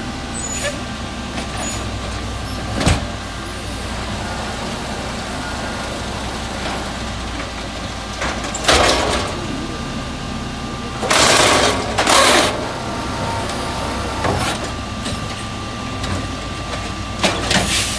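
Mack automated side loader garbage truck running steadily with a constant whine, broken by several short bursts of hiss and a single knock.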